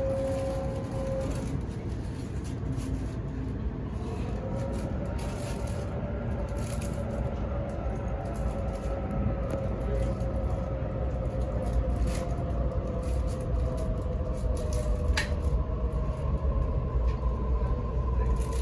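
Waratah A set's IGBT-VVVF traction inverter and motors whining in several steady tones over the low rumble of the train running on the rails. A new tone joins about four seconds in, and the rumble grows louder towards the end.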